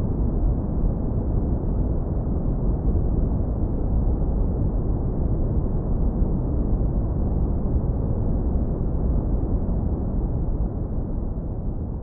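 Continuous deep brown noise, heavily lowpassed so it is a steady, smooth low rumble with no hiss on top.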